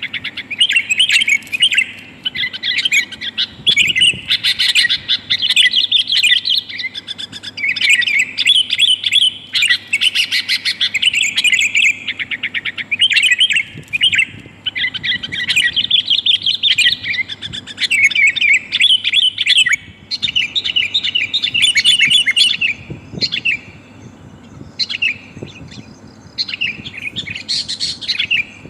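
Sooty-headed bulbul (kutilang) calling: a busy run of bright chirps and rapid chattering phrases with short gaps, thinning out and softening a little past the two-thirds mark. The uploader presents it as a female calling for a male, a lure call for wild bulbuls.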